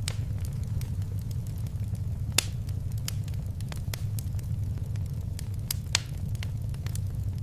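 Fireplace fire crackling: a steady low rumble of the flames with scattered sharp pops and snaps, two louder pops about two and a half and six seconds in.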